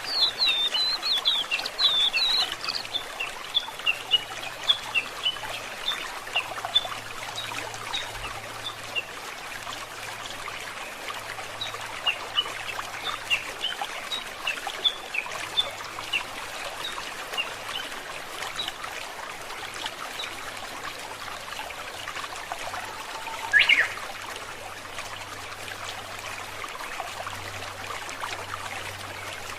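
Small forest stream trickling steadily, with songbirds chirping over it: a quick run of chirps in the first few seconds, scattered chirps after, and one louder call about two-thirds of the way through.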